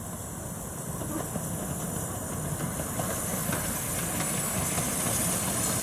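A miniature steam locomotive and its train approaching, its steam hiss and the running noise of the wheels on the rails growing steadily louder.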